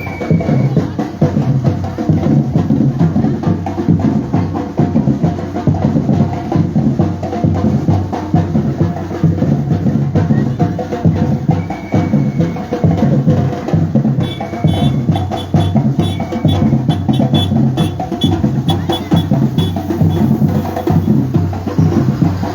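Batucada percussion group playing: drums and wood-block-like strokes beating a dense, steady rhythm.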